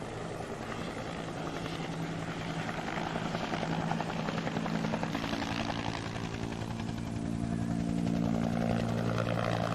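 A steady engine drone with a rapid, even chop, growing louder in the second half.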